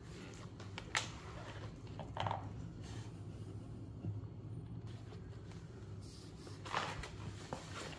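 A few faint, separate clicks and light scrapes from small parts being handled, over a steady low hum.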